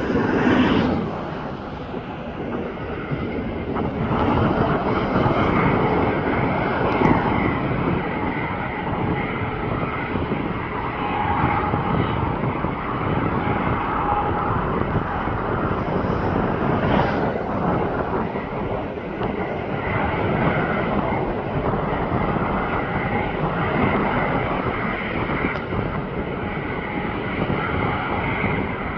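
Airplane engines running steadily as the aircraft passes, a dense rush with a faint steady whine above it. It peaks about a second in and swells again from about four seconds on.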